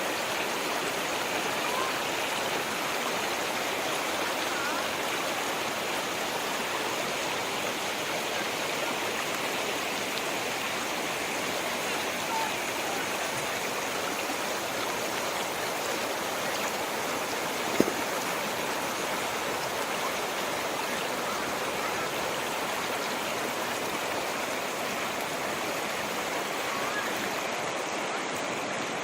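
Stream water flowing and babbling steadily. A single brief click sounds about two-thirds of the way through.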